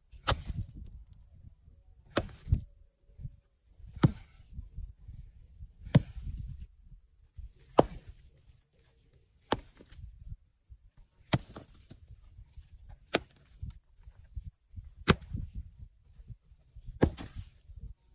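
Repeated chopping blows, one sharp strike about every two seconds, with low rustling and shuffling between strikes.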